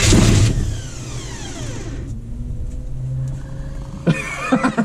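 1980 Chevy K30's small-block 350 V8 cranked on the starter and catching briefly with a loud burst, then dying away with a falling pitch within about a second and a half. A steady lower hum remains, and voices come in near the end.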